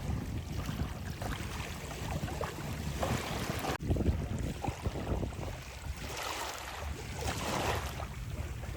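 Sea waves washing onto a beach, with wind buffeting the microphone; the surf swells about three seconds in and again near the end.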